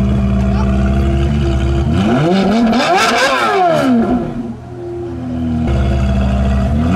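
Sports car engine idling, then revved once about two seconds in, its pitch climbing and falling back over about two seconds. It settles back to a steady idle.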